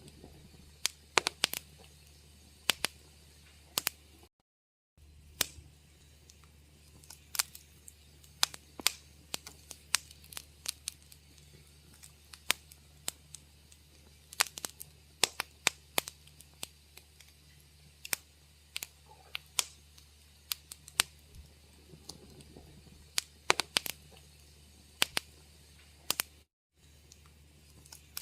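Wood fire crackling in a fireplace: irregular sharp pops and snaps, sometimes several in quick succession, over a steady low hum. The sound drops out to silence for a moment twice, about four seconds in and near the end.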